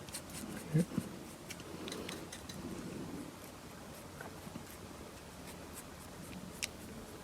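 Faint scratching and light dabbing of paint being applied to a small plastic action figure, with a few small clicks from handling it.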